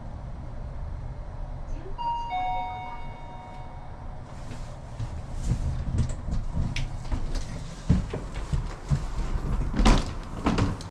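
A short electronic chime rings about two seconds in over the low rumble of the train, followed by a run of knocks and clatters, the loudest near the end.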